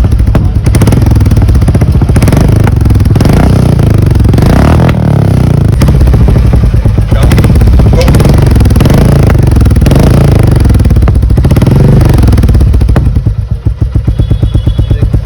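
Royal Enfield Meteor 350's single-cylinder engine, running loud through a Powerage aftermarket performance exhaust. It is blipped and revved several times, drops to a slow, thumping idle near the end, then picks up again.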